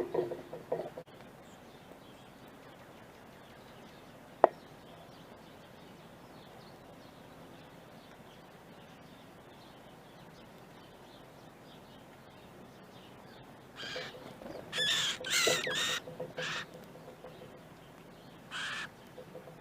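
Birds calling: a quiet stretch broken by one sharp click, then a cluster of loud, harsh calls about fourteen to sixteen seconds in and another just before the end.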